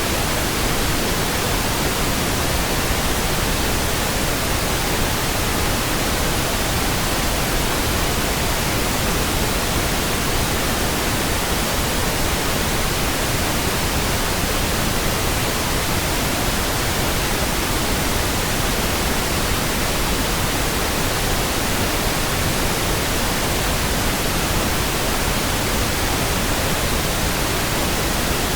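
Steady pink noise: an even hiss across the whole range, constant level with no changes or events.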